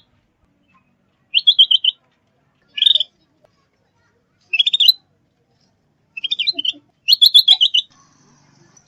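Scaly-breasted bulbul (kutilang zebra) calling: short phrases of four to six quick, high notes, about five phrases a second or so apart, the last one longer.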